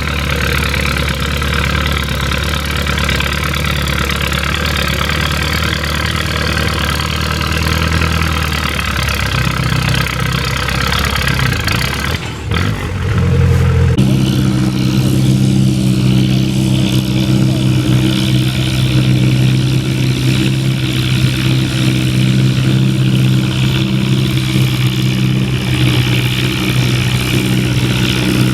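Antique farm tractor engine running loud and steady. About twelve seconds in the sound dips briefly, then comes back as a louder, steady, lower engine note.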